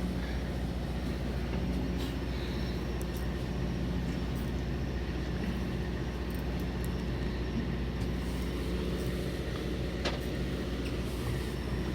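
Fishing boat's engine running steadily, a low even hum, with a short click about ten seconds in.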